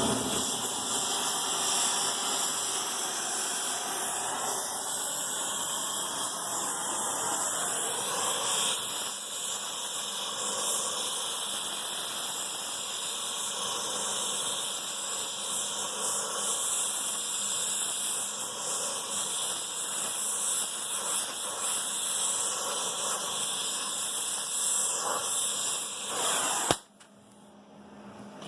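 Gas torch flame hissing steadily while it heats a section of steel patch panel red-hot so it can be bent over. The hiss cuts off suddenly near the end.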